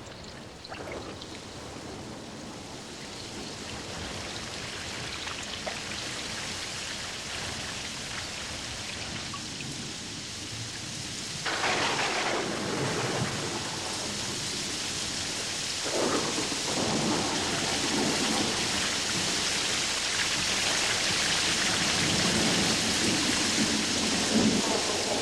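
Heavy rain falling in a thunderstorm, its hiss growing louder. Thunder breaks with a sudden crack about eleven seconds in and again about sixteen seconds in, each rolling on as a long rumble.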